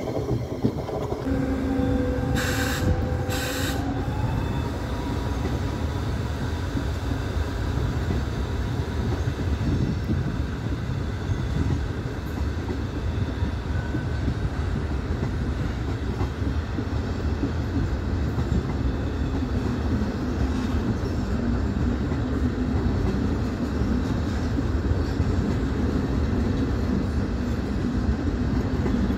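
Electric passenger train running on the station tracks: a steady low rumble with wheel noise. In the first few seconds there are two short hissing bursts and an electric whine that steps up in pitch.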